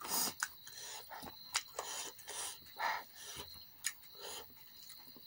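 Close-miked mukbang eating sounds: wet chewing and lip smacking, with sauce-covered fingers squishing through spicy chicken curry and boiled eggs. Irregular smacks and sharp clicks come every fraction of a second.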